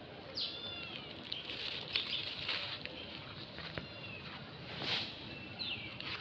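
Birds calling outdoors, short whistled notes that fall in pitch, about three times a few seconds apart, over rustling and a few sharp clicks.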